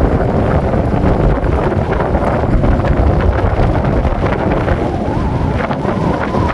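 Wind buffeting the microphone: a loud, steady low rumble, with a few faint ticks near the end.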